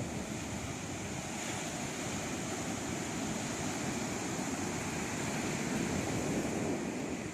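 Atlantic Ocean surf: waves washing in a steady rushing noise.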